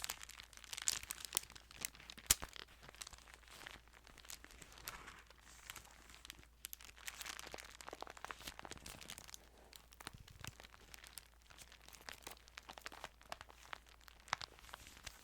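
Thin Bible pages rustling and crinkling as they are handled close to the microphone, with many small sharp clicks among the rustles. The sounds are busiest in the first few seconds, then go on more softly.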